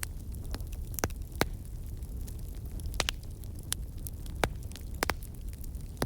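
Wood fire in a fireplace crackling: irregular sharp pops and snaps, several in quick succession, over a steady low rumble of the burning logs.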